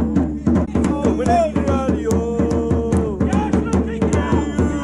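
Football supporters chanting a song over a steady drum beat, with long held sung notes.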